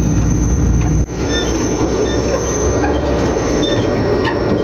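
Loud, steady rumble of a fast train's wheels on the rails, heard from inside the carriage, with a thin high whine running above it. The rumble dips briefly about a second in.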